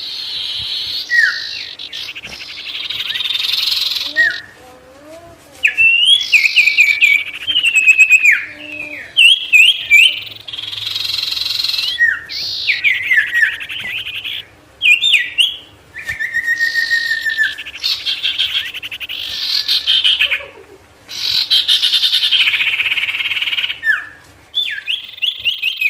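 A songbird, the bird Indonesian keepers call sirtu, singing loud and fast: phrases of a few seconds made of rapid trills and sharp slurred whistles, separated by brief pauses. A faint steady low hum runs underneath.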